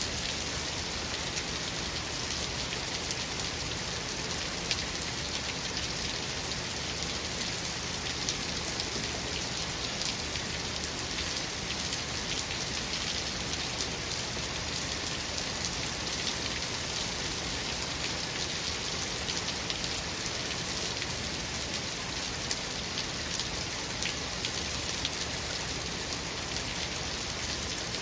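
Steady rain falling, a dense even hiss with the patter of many individual drops and no thunder.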